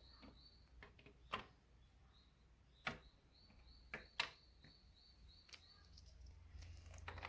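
Near silence: room tone with a few faint clicks and a faint, high chirp that repeats a few times a second.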